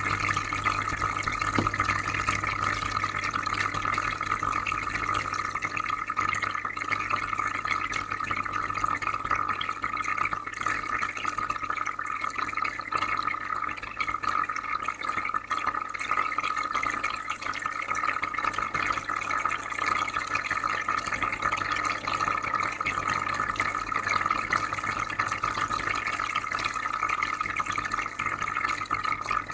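Aquarium filter running: steady bubbling and trickling water over a low electrical hum.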